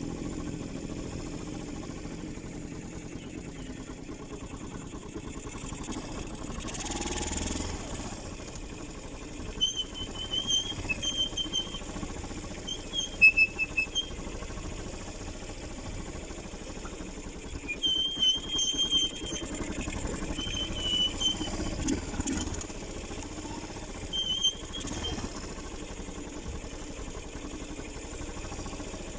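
Motorcycle engine running steadily at low revs. Short, high, chirping notes come in several bursts of about a second each, starting about ten seconds in.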